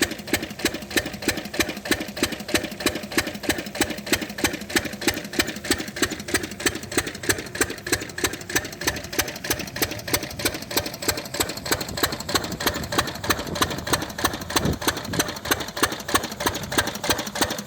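10 hp single-cylinder diesel engine of a canal-side pump set running at a steady speed, each firing stroke an even, regular knock.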